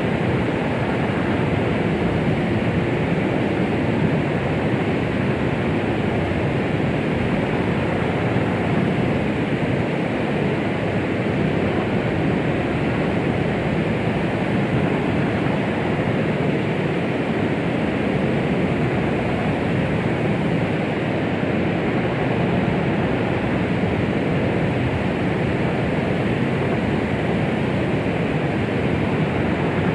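Steady white-noise track sold as a womb sound: an even, unbroken rushing shush, heavier in the low and middle range than a bright hiss, with no heartbeat or rhythm in it.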